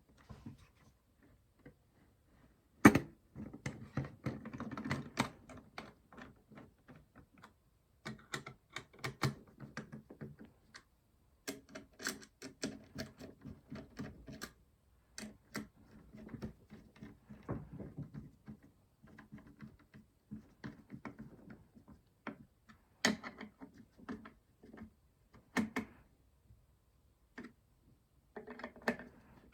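Hands handling small metal and plastic PC parts while fitting a CPU contact frame on a motherboard: an irregular run of small clicks, taps and rattles, with a sharp knock about three seconds in.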